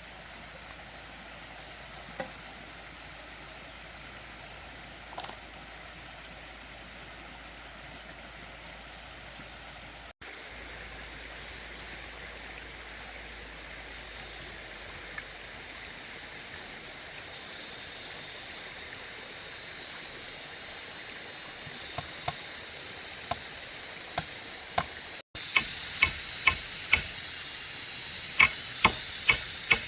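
Steady hissing background with faint high tones, over which come scattered sharp knocks. In the last few seconds the knocks come regularly, about two a second.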